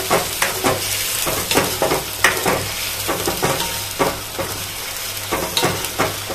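Onion-tomato gravy paste frying in hot oil in a steel pan, sizzling steadily, while a plastic spatula stirs and scrapes it around the pan in frequent short strokes. The masala is being fried (bhuna) over a high flame until the oil separates.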